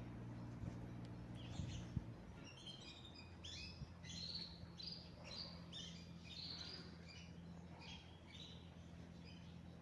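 Small birds chirping, a quick run of short high calls from many chirps in a row, over a faint steady low hum.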